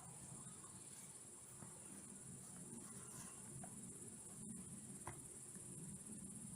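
Faint, steady high-pitched chirring of insects, crickets by the sound of the tags, with a couple of small clicks.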